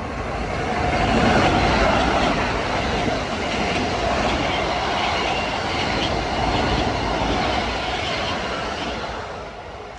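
Long Island Rail Road express train passing through the station: a loud rush of wheels on rail with clickety-clack. It builds over the first second or so, holds, and fades near the end.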